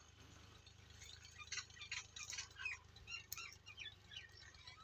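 Faint, scattered bird chirps over a quiet background with a low steady hum.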